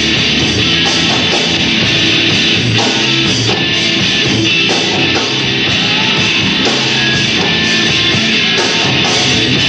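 A rock band playing live, with loud electric guitars carrying the music.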